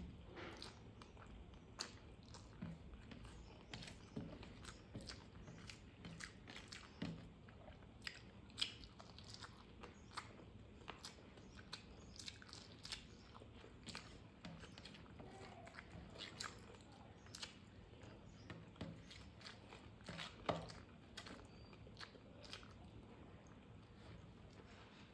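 A person chewing and biting food close to the microphone, with scattered small crunches and wet mouth clicks at an irregular pace, a couple of them louder than the rest.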